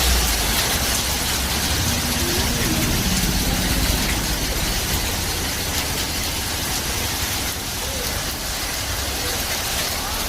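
Steady rain falling, an even hiss, with a low rumble under it that is strongest in the first few seconds.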